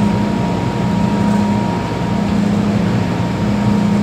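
MTR M-Train electric metro car running in an underground tunnel, heard from inside the passenger car. A steady low hum that swells and dips every couple of seconds, over running noise, with a thin constant whine above it.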